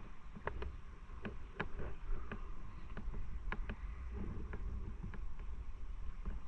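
Moving motorcycle heard from an on-board camera: wind rumbling on the microphone over a steady road and engine noise, with scattered light clicks.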